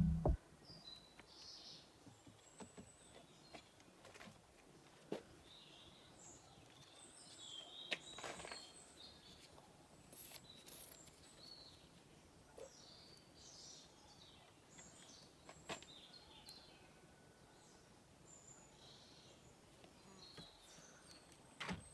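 Faint birds chirping and singing, with a few soft clicks scattered through.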